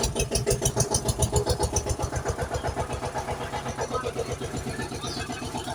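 Tractor engine running with a fast, even chugging beat, a little louder in the first two seconds.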